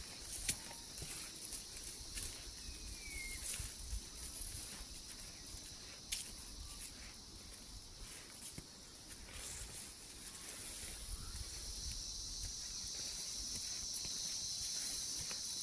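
Tropical forest ambience: a steady, high insect drone, with a second insect chorus growing louder from about two-thirds of the way in. Scattered footsteps and rustles sound underneath, and a short bird chirp comes about three seconds in.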